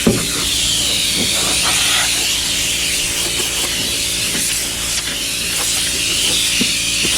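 Steady hissing rush of air, as a blower clears dust and debris out of the aluminum boat's seams and cracks, with a short knock right at the start.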